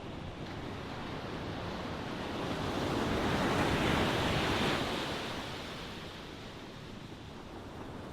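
Ocean waves breaking: a steady wash of surf that swells to one wave crashing in the middle, then recedes.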